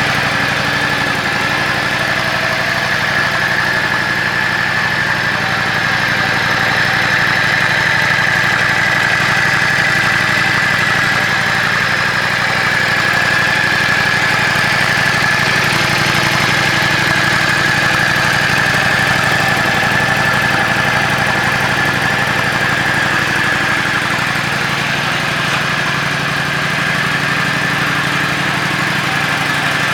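Yamaha Drag Star 400's air-cooled V-twin idling steadily through an aftermarket muffler, with a steady high whine over the engine sound.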